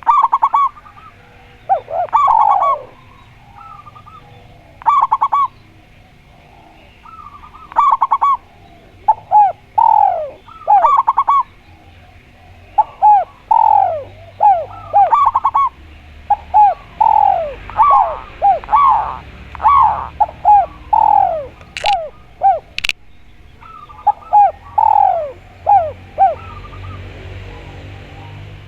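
Spotted dove (tekukur) and zebra dove (perkutut) cooing in repeated phrases of short, curved, falling coos, with gaps of a second or two between phrases. A faint steady hum runs beneath, and two sharp clicks come about three quarters of the way through.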